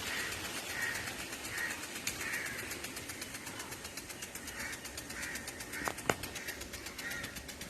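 Agricultural rain gun sprinkler running, its jet breaking up and falling as rain, with a rapid, even ticking and a few sharper clicks.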